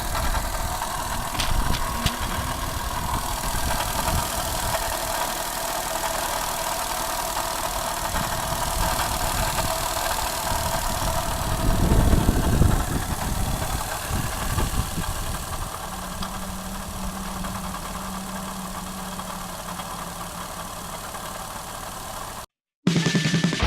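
Daihatsu Tanto (L375S) three-cylinder engine idling, with the karakara rattle that the owner traced to a failing water pump. The engine gets louder for a moment about twelve seconds in.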